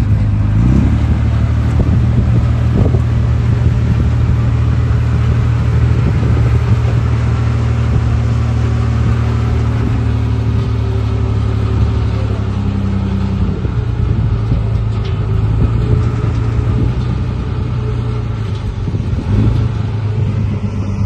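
Diesel engine of heavy earthmoving equipment running steadily with a low, even hum, its pitch shifting slightly now and then.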